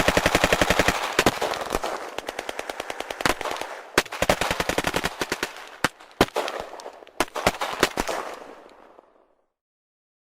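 Machine-gun sound effect: a long, rapid burst of automatic fire, then shorter bursts and single shots with an echoing tail that fades out about nine seconds in.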